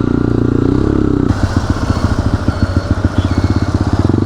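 Motorcycle engine running while being ridden, its steady note changing about a second in to a rougher, rapid pulsing exhaust beat.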